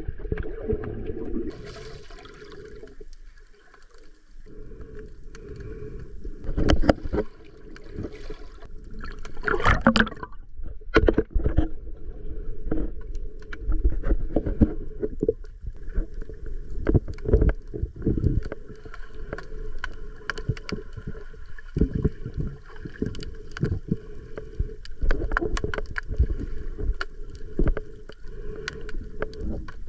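Water sloshing and splashing close to the microphone, with frequent irregular knocks and splashes.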